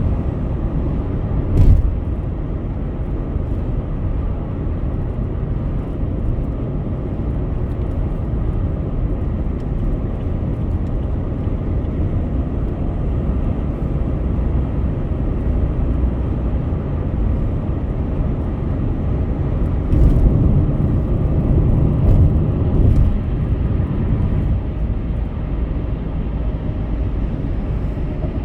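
Car travelling at highway speed: a steady low rumble of tyres and engine, with a sharp thump about two seconds in and a few louder bumps around twenty seconds in.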